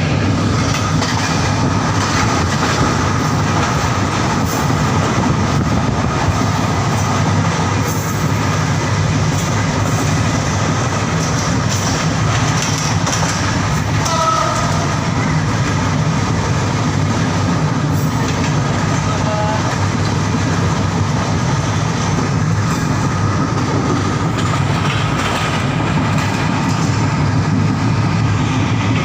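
Train running steadily on the rails, a continuous loud rumble of wheels on track. A brief pitched tone sounds about fourteen seconds in, and a fainter one some five seconds later.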